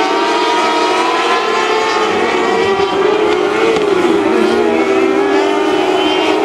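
Engines of several mini sprint race cars running together, their pitches wavering up and down and overlapping as the cars circle the track.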